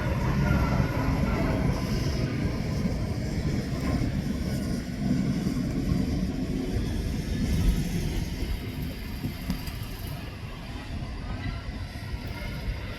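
Low, steady rumble of heavy diesel earthmoving machinery working on a construction site, easing off slightly in the last few seconds.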